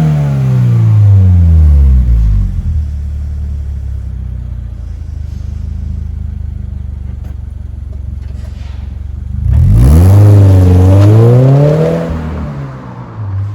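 Subaru BRZ / Toyota GR86 2.4-litre flat-four exhaust through a straight-through aftermarket muffler with a titanium tail, free-revving: the revs fall and settle to a steady burbling idle, then one throttle blip about ten seconds in rises, holds briefly and drops back to idle near the end.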